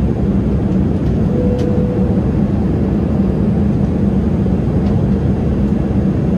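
Steady cabin rumble of a Boeing 787-8 airliner, a dense low roar of engine and airflow noise with no break.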